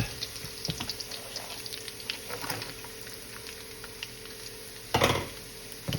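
Sliced garlic and ginger frying in oil in a pan: a light, steady crackle with scattered small pops over a faint steady hum. About five seconds in comes a brief, louder rush of sound.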